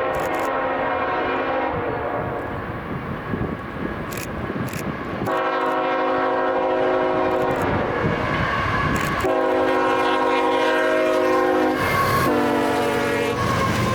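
Freight locomotive's air horn blowing over the rumble of the train. A fainter sounding fades out in the first few seconds, then from about five seconds in the horn gives three long, loud blasts with short breaks between them.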